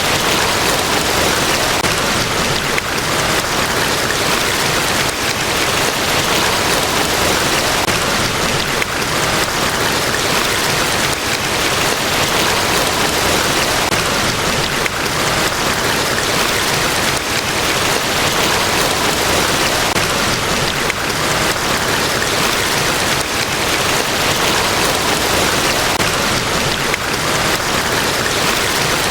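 Niagara Falls, a large waterfall, rushing as a steady, unchanging wash of water noise.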